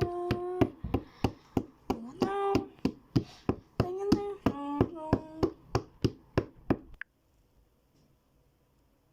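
A high-pitched voice singing drawn-out 'oh' vowels that step up and down in pitch, over a steady clicking beat of about three clicks a second. Voice and clicks stop together about seven seconds in.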